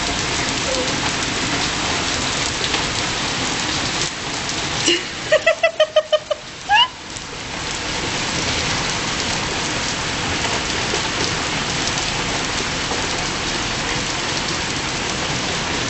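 Heavy rain pouring steadily onto a stone-flagged yard. About five seconds in the rain dips for a moment under a quick run of about six short, high-pitched voice sounds, then a brief rising one.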